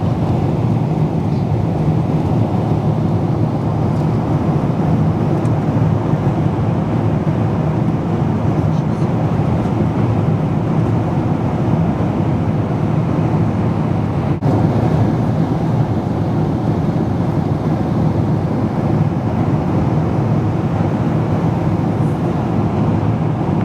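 Airliner cabin noise at cruise altitude: a steady, deep rushing drone of engines and airflow. A single brief click comes about two-thirds of the way through.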